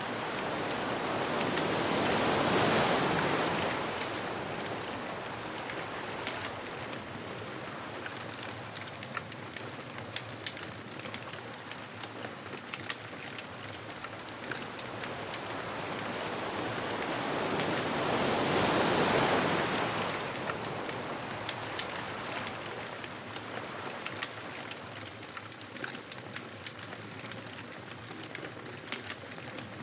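Ocean waves breaking on a beach, two large swells of surf about two seconds and nineteen seconds in, with a steady wash between them. Small crackles from a wood bonfire run through it.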